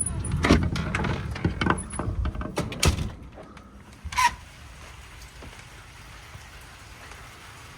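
Heavy thunderstorm rain falling as a steady hiss. For about the first three seconds there is a louder gusty rumble with a string of knocks and clatters, and a single sharp clack comes a little after four seconds.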